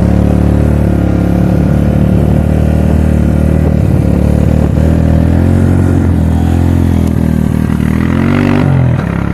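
Suzuki King Quad ATV engine running under way, its revs rising and falling a couple of times. It makes a last climb near the end, then drops off sharply.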